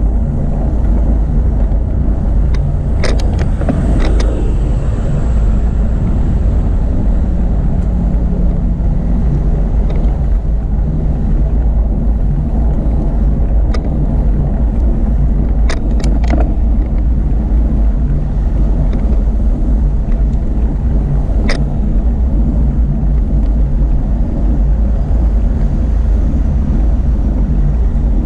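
Steady low rumble of wind buffeting the microphone on a moving bicycle, with tyre and road noise under it. A handful of short sharp clicks or rattles cut through, two pairs and a single one.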